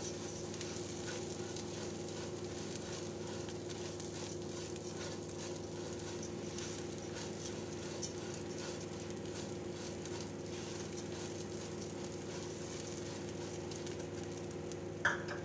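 Basmati rice, green lentils and fried onions sizzling in hot oil in a non-stick pot while a silicone spatula stirs them, with soft scraping strokes over a steady low hum. One brief sharp sound near the end.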